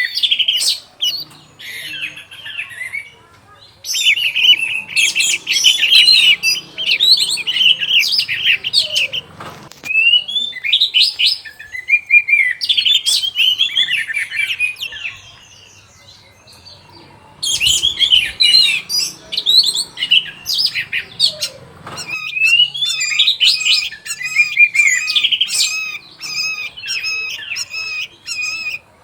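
Orange-headed thrush singing: bursts of fast, varied whistled phrases lasting a few seconds each, separated by short pauses, ending in a run of evenly repeated notes.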